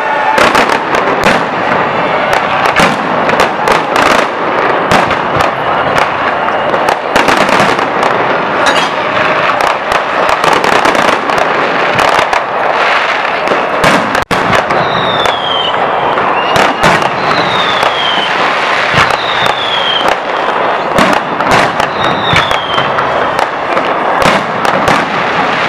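Aerial fireworks display: a dense, continuous barrage of bangs and crackling bursts, with several short falling whistles in the second half.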